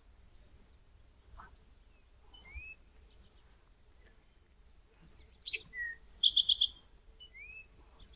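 Songbirds calling: short rising whistles and brief high trills, the loudest a sharp downslurred note followed by a fast trill about six seconds in.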